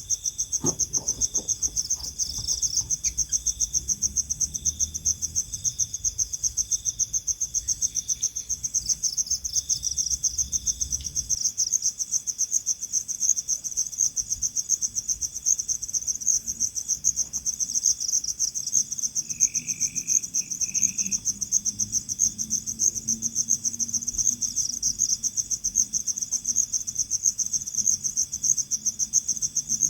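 Crickets chirping in a steady, rapid, high-pitched pulse.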